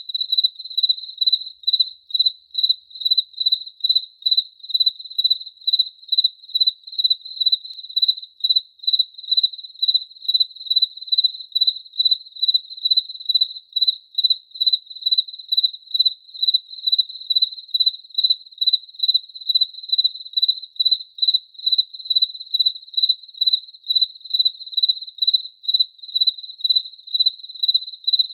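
A cricket chirping steadily: a single high-pitched chirp repeated evenly, about two to three times a second.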